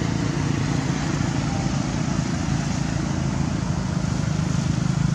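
A steady low engine hum, like a motor vehicle running nearby, holding the same pitch throughout.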